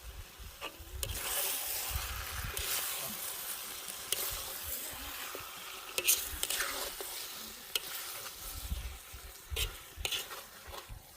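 Food sizzling as it fries in a pot while it is stirred, with sharp clicks and scrapes of the utensil against the pot. The sizzle rises about a second in and eases after about seven seconds.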